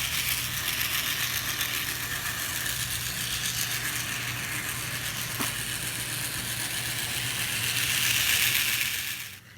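HO-scale model train running along the track: the locomotive's small electric motor hums steadily under the rattle of its wheels and cars on the rails. The sound swells slightly, then cuts off suddenly just before the end.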